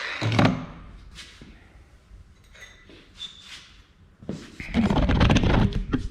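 An abrasive cutoff wheel's cutting noise ends in the first moment with a thud, then the cut-off piece of metal strap and tools are handled: scattered light clicks, then a run of clanks and rattles about four to six seconds in.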